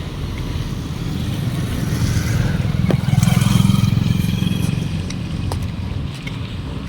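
Heavy monsoon rain hissing steadily, with a road vehicle's low engine rumble swelling to a peak about three to four seconds in and fading again as it passes by.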